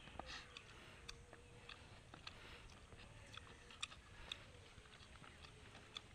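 Close-miked mouth chewing and eating, faint, with irregular small wet clicks and smacks over a faint steady hum.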